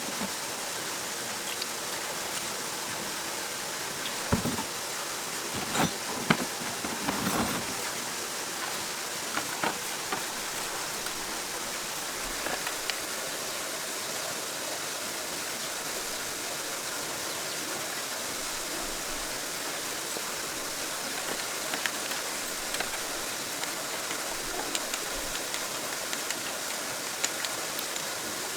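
Steady hiss of rain falling, with a few sharp knocks in the first several seconds.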